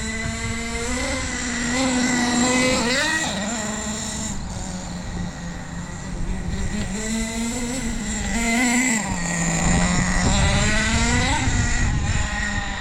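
Hot Bodies .18 nitro engine of an RC truck running at speed, its high buzzing note holding steady and then sweeping up and down, about three seconds in and again near the end, as the throttle changes.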